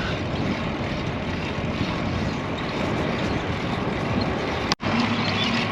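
Wind rushing over an action camera's microphone on a bicycle riding into a strong headwind, a steady noisy rush. The audio drops out abruptly for an instant near the end, and a low steady hum joins the noise after it.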